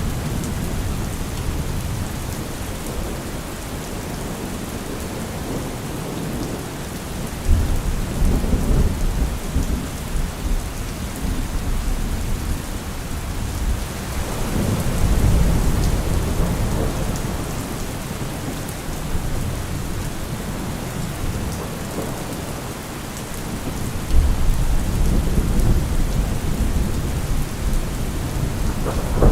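Steady heavy rain with thunder rumbling in deep swells: one sets in suddenly about seven seconds in, another swells in mid-way, and a third breaks sharply near the end.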